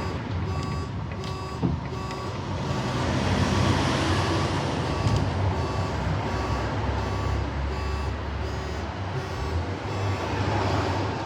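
Heritage tram running on street track, heard on board: a low rumble with a swell of wheel and running noise a few seconds in. Through it, an electronic beeping repeats steadily about twice a second.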